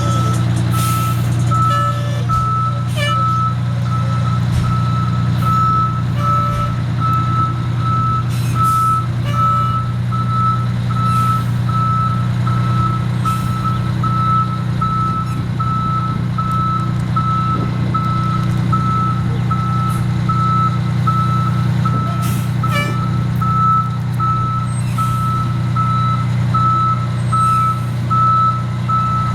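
Old fire engine's reversing alarm beeping steadily, about once a second, over the steady low running of its engine as it backs up.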